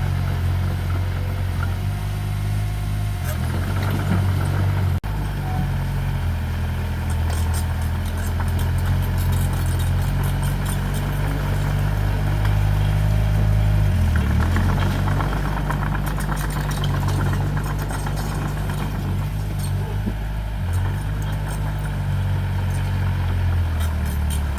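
Diesel engine of heavy earthmoving machinery running steadily, with light metallic clatter over it; the engine pitch dips and shifts a couple of times.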